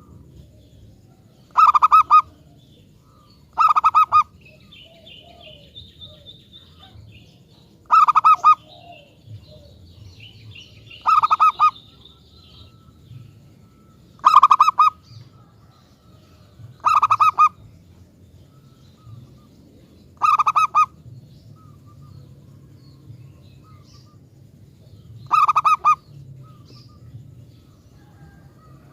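Zebra dove (perkutut) singing: short bursts of rapid staccato cooing, each about half a second long, repeated eight times at uneven gaps of two to five seconds. Faint high chirping of other small birds comes between the songs.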